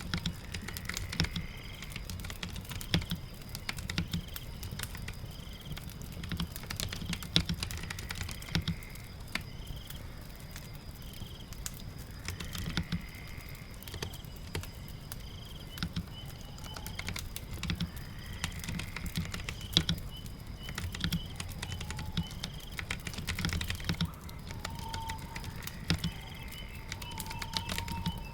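Keyboard typing in irregular runs of key clicks over steady rain, with a fireplace crackling in the mix.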